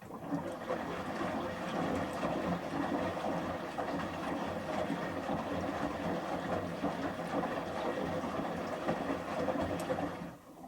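Samsung front-loading washing machine drum turning during the final rinse, with the shirts tumbling and sloshing in the rinse water. It starts suddenly and stops after about ten seconds.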